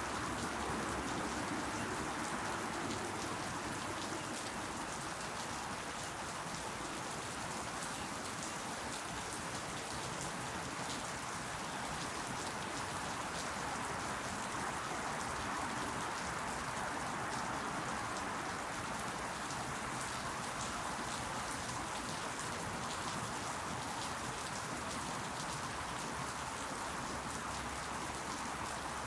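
Steady rain falling, with many fine drop ticks pattering on leaves.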